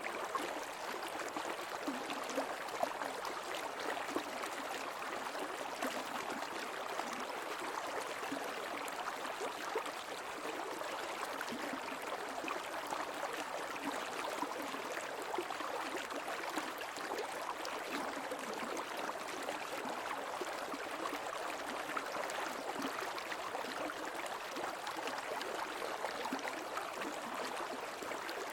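Shallow creek water flowing steadily over rocks, a continuous babbling and gurgling with many small splashes.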